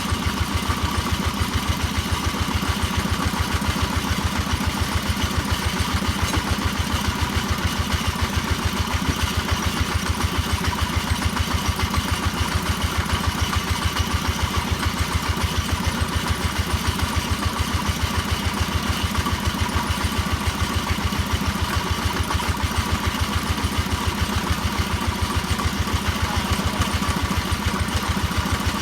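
Engine of a percussion (hammer) drilling machine running steadily, with an even pulsing beat.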